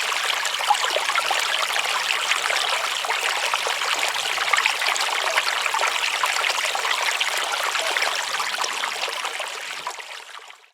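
Running water in a small stream, trickling and splashing steadily, fading out near the end.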